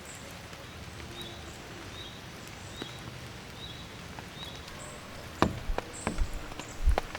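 Steady rain falling, with a faint short high chirp repeating about once a second and a few sharp knocks in the second half.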